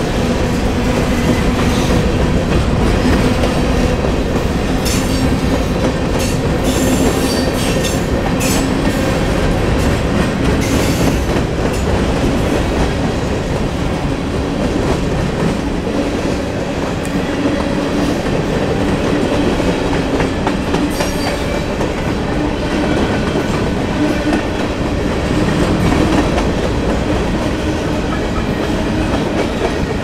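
Covered hopper cars of a freight grain train rolling past close by: a loud, steady rumble and rattle of steel wheels on rails, with a few brief sharper, higher noises between about 5 and 11 seconds in.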